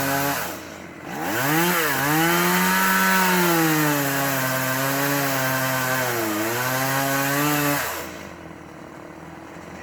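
Chainsaw running at full throttle, cutting a limb: its pitch sags twice as the chain bites into the wood and picks back up. Near the end the saw eases off and goes quiet.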